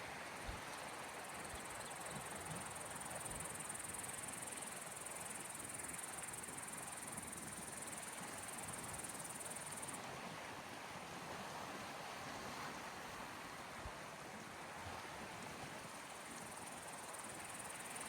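Small waves washing softly on the shore, with a steady high-pitched insect chirring over them that stops about ten seconds in and starts again near the end.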